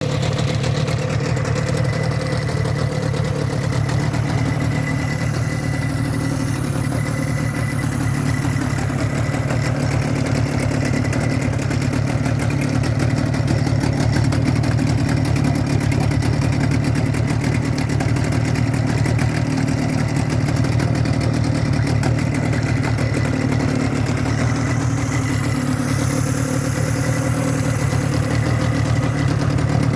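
Yamaha 25DM two-stroke 25 hp tiller outboard motor running steadily at idle.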